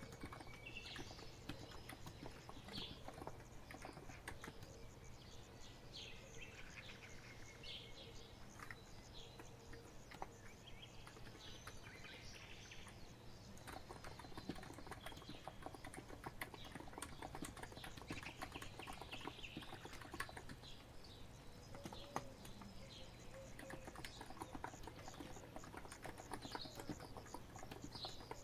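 Continuous typing on a COX Empress electro-capacitive keyboard, a dense patter of soft key clicks, with birds chirping in the background.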